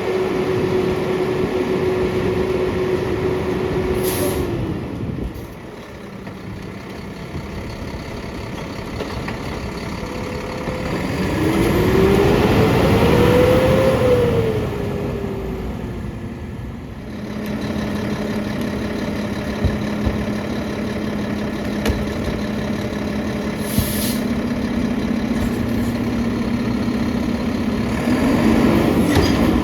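Mack LR garbage truck's diesel engine running with the packer hydraulics, revving up and back down in the middle of the stretch, with a short air hiss about four seconds in and again later on.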